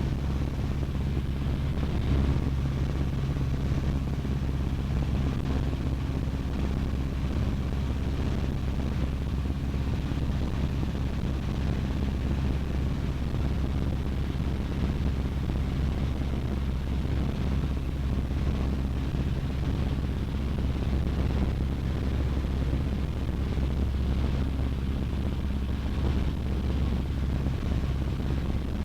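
Cessna 152's four-cylinder Lycoming engine and propeller droning steadily, heard from inside the small cockpit in flight.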